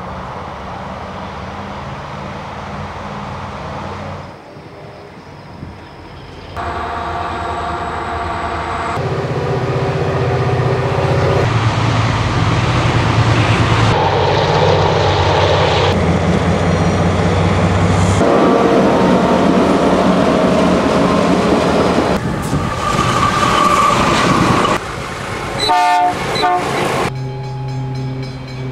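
A series of diesel trains passing: locomotive engines running under load, with wheels clicking over the rail joints, and a horn sounding at times. The sound changes abruptly every few seconds from one train to the next.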